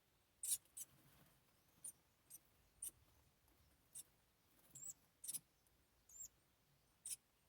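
About ten brief, very high-pitched peeps from southern house wrens at the nest, spaced irregularly, a few ending in a short downward slur.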